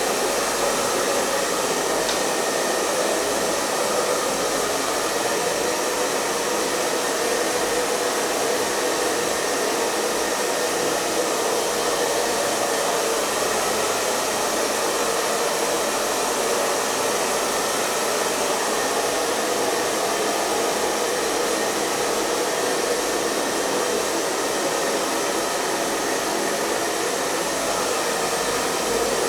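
Hair dryer running steadily, a constant rushing blow of air over the motor's hum, with no change in speed.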